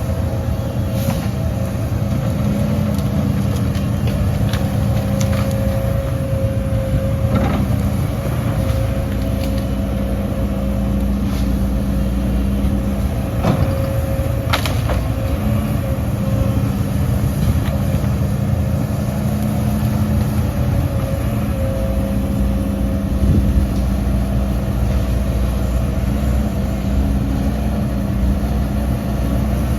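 Heavy diesel engine of earthmoving machinery running steadily, with a few sharp clanks over it.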